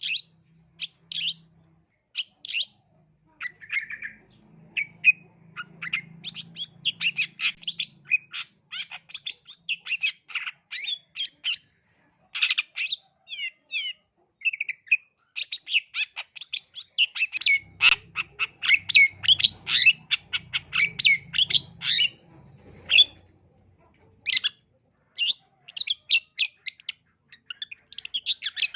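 Long-tailed shrike (cendet) singing a fast, varied song of short, high chirps and harsh notes in rapid runs broken by brief pauses.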